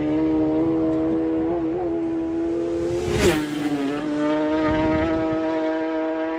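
Isle of Man TT racing motorcycles at full speed: one engine holds a high, steady rev note that creeps up in pitch. About three seconds in, another bike flashes past with a sharp drop in pitch.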